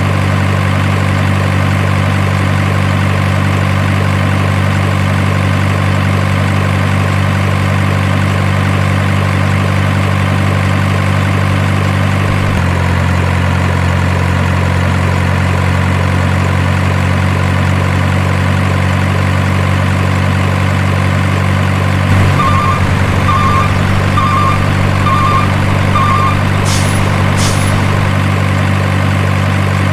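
Steady idling truck-engine sound with an unchanging low note, as from an RC truck's engine sound unit; the note shifts slightly about twelve seconds in. Near the end come five short beeps, then two brief hisses.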